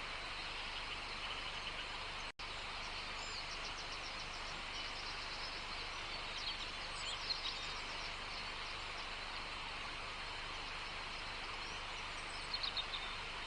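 Outdoor nature ambience: a steady dense hiss with birds chirping in short runs of quick high notes, a few seconds in, around the middle and near the end. The sound cuts out for an instant about two seconds in.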